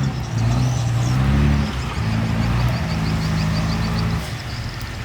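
Heavy diesel engine of earthmoving machinery running under changing load, its pitch stepping up and down several times before easing near the end, with a quick, even ticking over it.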